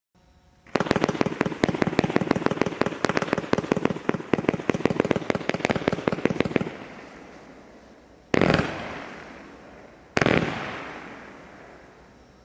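Consumer fireworks going off: a rapid stream of shots for about six seconds, then two single loud bangs about two seconds apart, each echoing as it fades.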